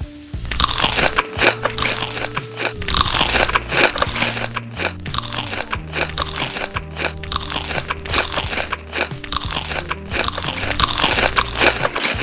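Rapid, crisp crunching of someone biting and chewing crunchy food, starting about half a second in, over background music with held bass notes.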